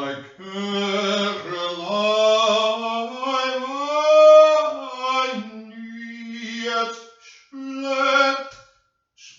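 A lone voice singing slowly without accompaniment, in long held notes. The pitch climbs to its highest and loudest point about four seconds in, then falls, with a short break about seven and a half seconds in.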